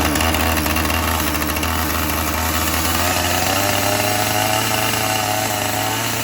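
2007 Husqvarna 450 two-stroke chainsaw running steadily just after a cold start on choke, prime and decompression valve; its engine note steps up slightly about halfway through.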